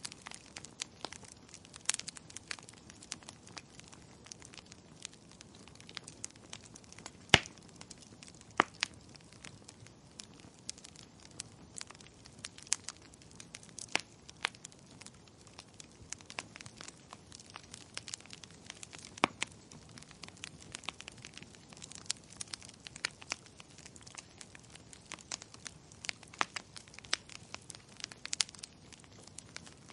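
Wood fire crackling, with irregular sharp pops and snaps over a low steady hiss; the loudest pop comes about seven seconds in.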